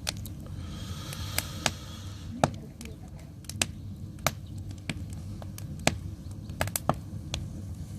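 Firewood crackling in a traditional Korean agungi firebox: irregular sharp pops over a steady low rumble, with a brief hiss about a second in.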